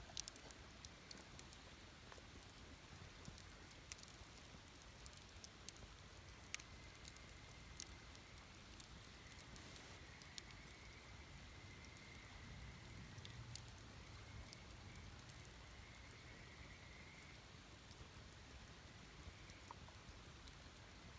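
Wood fire crackling quietly, with scattered small pops and snaps, a few sharper ones in the first second, and a faint thin whistle through the middle.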